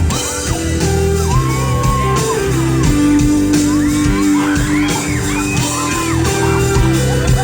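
Live pop-band music playing an instrumental passage between sung lines, with fans in the crowd shouting and whooping over it.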